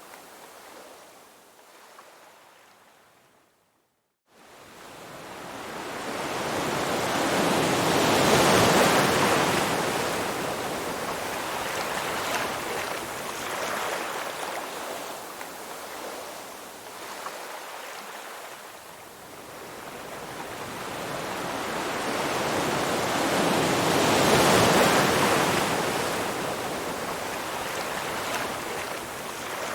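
Ocean surf: waves washing in and drawing back as a rushing hiss. Two big swells build and fade, one about a third of the way in and one near the end, and there is a brief dropout to near silence about four seconds in.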